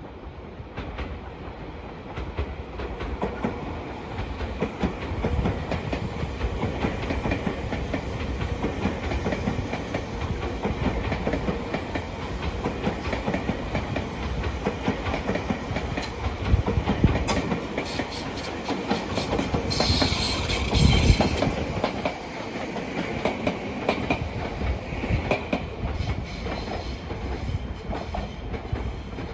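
A Tobu line electric train running through the station, its wheels clicking over the rail joints in a steady rumble that builds over the first few seconds. A brief high hiss comes about two-thirds of the way in.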